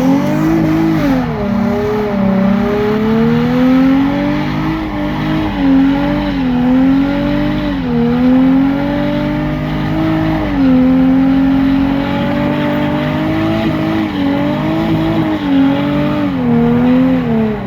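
A car engine held at high revs during a skid or burnout. The engine pitch repeatedly dips and climbs again every second or two, over a rushing haze of tyre noise.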